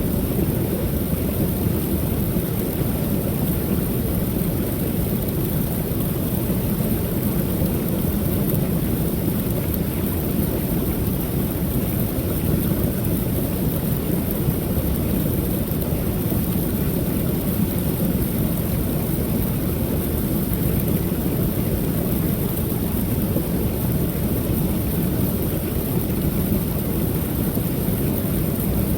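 Water pouring steadily over a small creek waterfall: a constant low rush with no breaks.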